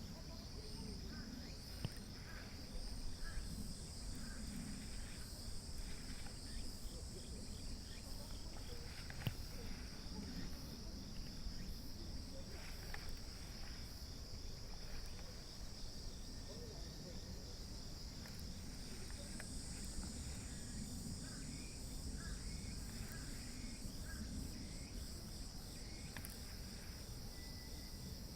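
Insects calling in a steady, unbroken high-pitched chorus, with a second higher-pitched insect sound coming and going, over a low outdoor rumble.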